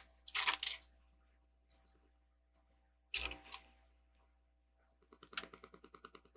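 Plastic Lego pieces clicking and clattering as they are handled: two short bursts of clicks, then a quick run of light ticks near the end.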